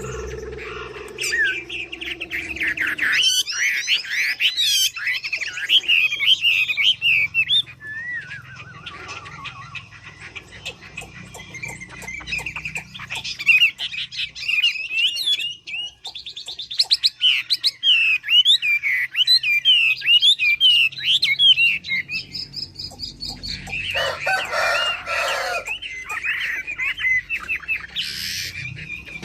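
A Mi songbird singing: bursts of fast, varied warbling phrases with short pauses between them. A lower call fades out in the first few seconds.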